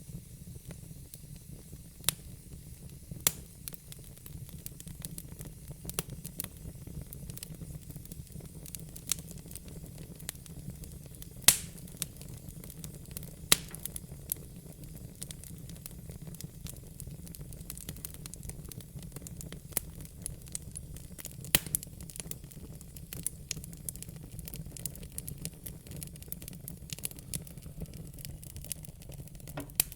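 Wood fire in a fire pit crackling, with frequent small pops and a few much louder snaps, over a low steady rumble of the flames.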